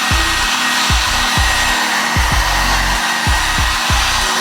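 Electric heat gun blowing steadily, warming freshly applied vinyl graphics to settle the adhesive. Background music with a steady beat plays underneath.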